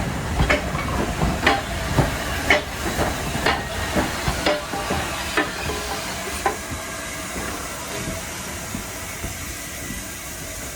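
Steam train coming into the platform: regular sharp knocks about twice a second that slow and die away over the first six or seven seconds, over a steady hiss of steam.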